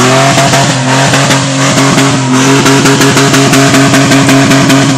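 Ford Explorer's engine revved and held at a steady high rev, with a fast, regular stutter of pops running through it.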